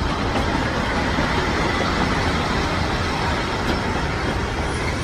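Kangra Valley Railway narrow-gauge passenger coaches rolling past close by: a steady rumble of steel wheels on the rails.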